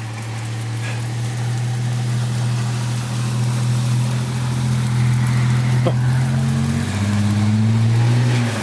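Car engine running under load and growing louder, its pitch rising near the end as it revs harder, while the car struggles for grip on an ice-glazed road.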